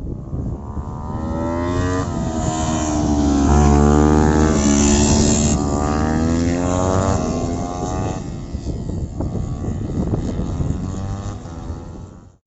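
Motorcycle engines at high revs passing by on a kart track: the engine note rises and grows louder to a peak about four seconds in, then drops in pitch and fades as the bikes ride away. The sound cuts off suddenly at the end.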